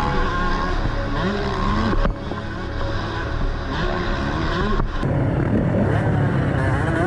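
Motocross bike engine revving, its pitch rising and falling again and again as the throttle is opened and shut, with sudden changes about two seconds in and again about five seconds in.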